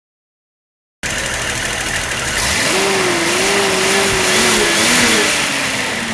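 Datsun 280Z's L28E fuel-injected straight-six running at idle, coming in suddenly about a second in after silence. Its manifold vacuum reads about 18 inHg.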